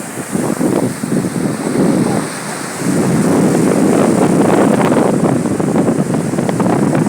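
Wind buffeting the microphone over the wash of sea surf, gusting harder about three seconds in.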